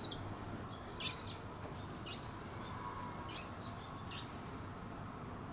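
Small birds chirping: a handful of short, high chirps, the loudest about a second in, over a steady faint outdoor background.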